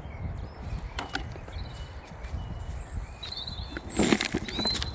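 Outdoor garden ambience: wind rumbling on the microphone and faint bird chirps, with a quick clatter of knocks, as of plastic toys being handled, about four seconds in.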